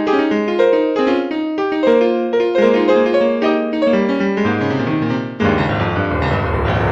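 Background piano music: a quick run of single notes, with deeper bass notes joining about four and a half seconds in and a fuller held chord about a second later.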